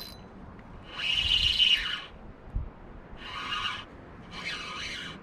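Fishing reel working in three short bursts of about a second each while a bass is on the line.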